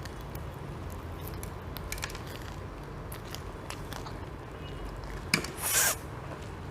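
Biting into and chewing crispy fried boneless chicken, with small crunchy clicks throughout and a louder burst of noise about five and a half seconds in.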